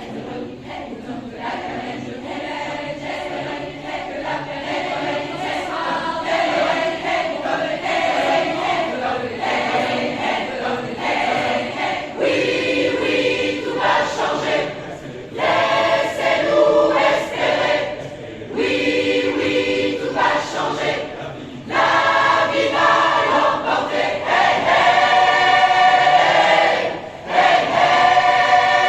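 Choir singing in parts, phrases swelling and breaking off briefly between lines.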